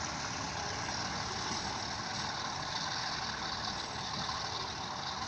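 Steady rumble and hiss of a train in motion, with no horn sounding.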